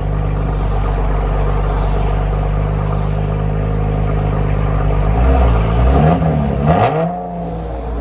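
Chevrolet Camaro 3.6L V6 with a Borla ATAK axle-back exhaust and an X-pipe in place of the resonator. It idles steadily, then about five seconds in it is blipped up and down a few times, with a short sharp crack near the top of the last rev.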